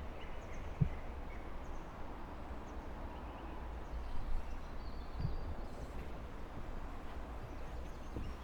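Outdoor natural ambience: faint bird chirps over a steady low rumble, with a couple of soft thumps.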